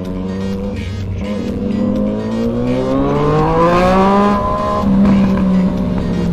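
Sport motorcycle engine accelerating hard: the pitch rises steadily for about three and a half seconds, drops sharply at an upshift near five seconds in, then holds steady.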